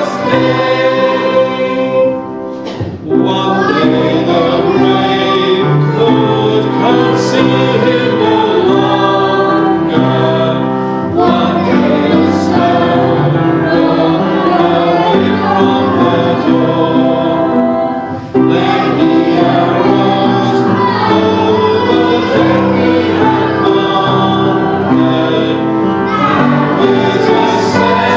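A choir singing a gospel hymn with instrumental accompaniment, with brief pauses between phrases about two and a half seconds in and again near eighteen seconds.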